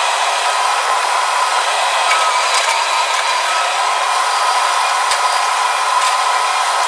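Steady machine whirring with a faint whine in it and a few light clicks.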